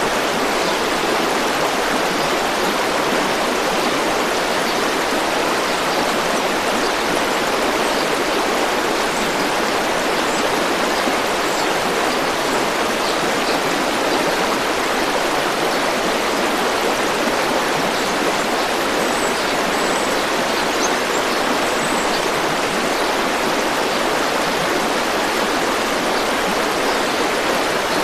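A river or stream running with a steady, unbroken rush of flowing water.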